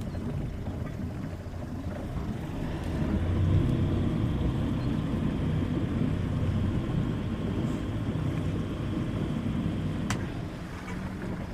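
Boat engine running steadily, a low drone that grows louder a few seconds in, with a single sharp click near the end.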